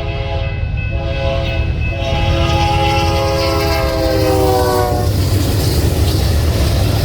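Train's multi-chime air horn sounding two short breaks and then one long blast whose pitch drops as the locomotive passes. The horn stops about five seconds in, leaving the loud rumble of the train going by.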